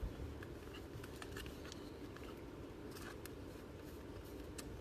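Faint handling of trading cards and their packaging: scattered soft clicks and short rustles over a low room hum.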